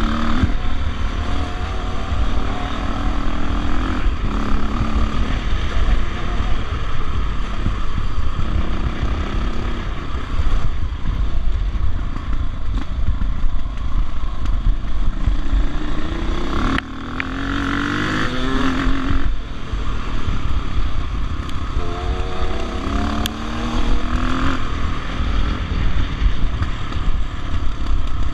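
Dirt bike engine running under way on a trail ride, its pitch rising and falling as the rider works the throttle and gears. There is a clear climbing rev about 17 seconds in, over a constant heavy low rumble.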